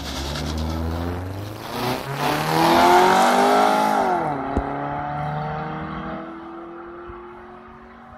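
Two cars, a stock Ford Fusion and an Acura Integra RS, accelerating hard from a standing start in a drag race. The engines rev up through the gears, pitch climbing and dropping at each shift, and are loudest about three seconds in before fading as the cars pull away.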